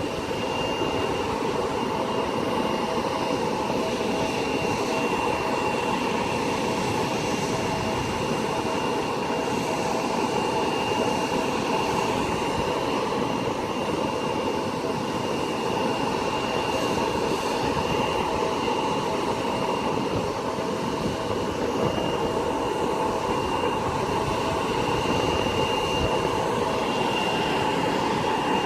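Steady jet aircraft engine noise with a constant high-pitched whine over a broad rush, holding the same level throughout.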